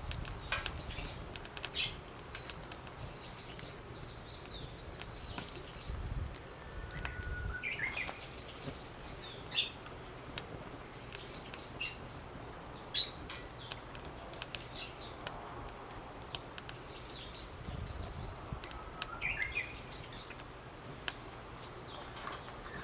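A bird calling twice, about eleven seconds apart, each call a short whistle followed by a quick rising chirp. Scattered sharp snaps and cracks run throughout and are the loudest sounds.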